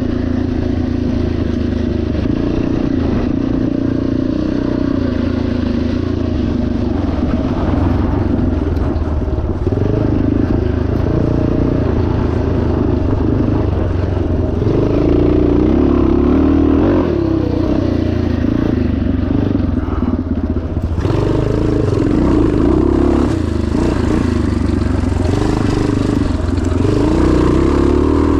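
1977 Yamaha TT500's single-cylinder four-stroke engine running hard under way, its pitch rising and falling repeatedly with the throttle.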